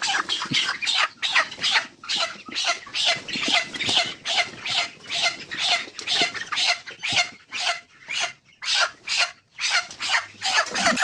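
A broiler chicken squawking over and over, about three harsh calls a second, as it is caught and held: a distress call.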